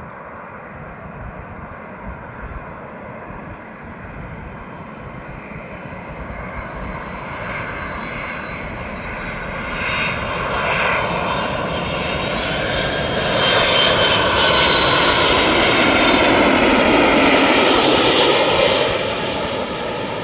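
Cargo plane's engines passing close by: the sound builds steadily, stays loud for several seconds with a whine sliding down in pitch, then falls away sharply near the end.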